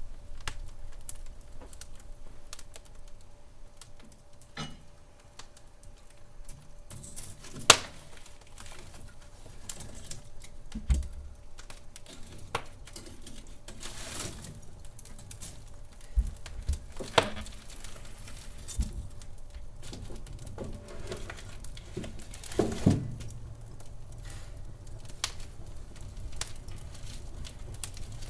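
Wood fire crackling in a fireplace, with irregular sharp pops over a soft hiss; the loudest pop comes about eight seconds in.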